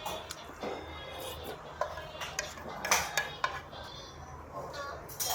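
Cutlery clinking and scraping against dishes at a meal, in a run of small sharp knocks, the loudest just under three seconds in.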